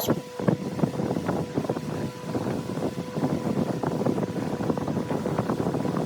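Wood lathe running with a steady motor hum while a turning tool cuts into the spinning wood, giving a constant rough scraping with many irregular ticks and crackles.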